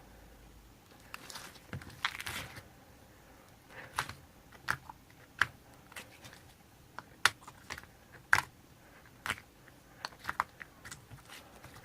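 Clay being mixed and kneaded by hand, making irregular sticky clicks and pops, a few of them sharply louder.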